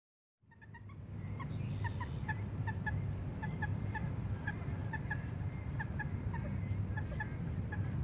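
Birds giving a steady series of short, evenly repeated calls, two or three a second, over a steady low rumble; the sound fades in about half a second in.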